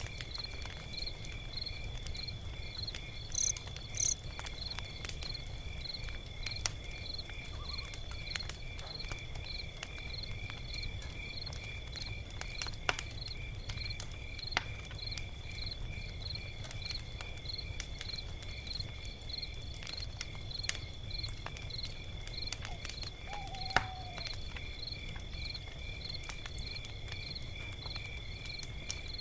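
Log fire crackling with scattered sharp pops over a low rumble, while crickets chirp steadily, about two chirps a second over a constant high trill.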